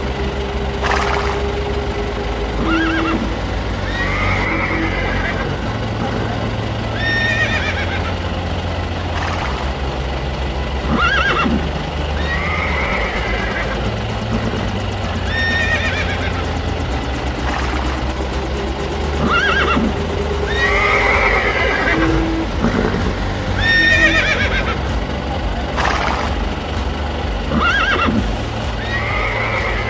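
A horse whinnying again and again, a call about every two seconds, over background music with a stepping bass line.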